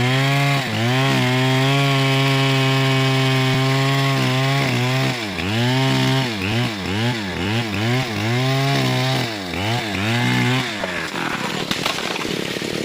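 Stihl 070 two-stroke chainsaw running at high revs. After about five seconds its pitch dips and recovers about twice a second, as the engine is loaded and unloaded in the cut. Near the end the engine note drops away, leaving a rough, noisy crackle.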